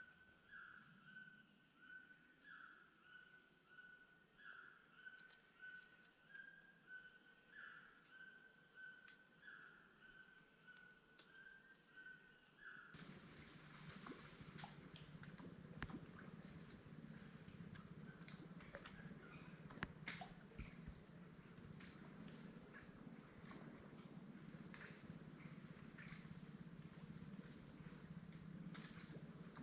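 Amazon rainforest ambience: a steady high-pitched drone of insects, with a short call repeating a little more than once a second. About 13 seconds in the sound changes abruptly to a different insect drone with scattered crackles and rustles.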